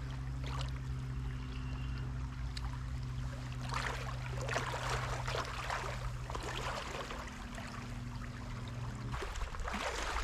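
Stream water rushing and splashing around a kayak, with a spell of louder splashing in the middle. A steady low hum runs underneath and stops about nine seconds in.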